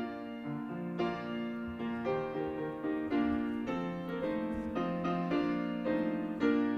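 Piano or keyboard playing the introduction to a hymn: sustained chords changing every half second or so, fading near the end.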